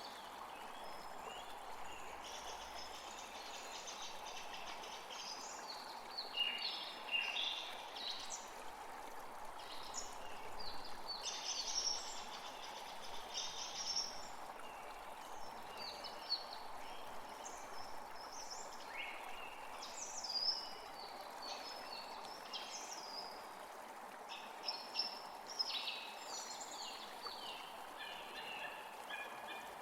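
Wild birds chirping and singing in short, high, rapid phrases, scattered throughout, over a steady background hiss.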